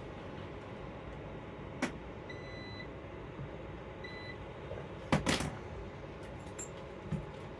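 Robot vacuums running with a steady whir of motors and brushes. Two short electronic beeps sound, one a little over two seconds in and a shorter one about four seconds in. A few sharp knocks come about two seconds in, a cluster just past five seconds, and one near the end, as the robots bump into things.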